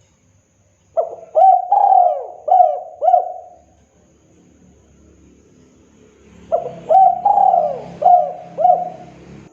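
Spotted dove (tekukur) singing its cooing song: two phrases of about five quick rising-and-falling coos each, the first about a second in and the second after a few seconds' pause.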